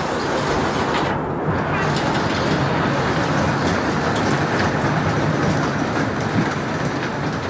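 Miniature park ride-on train running along its track, a steady mechanical running noise.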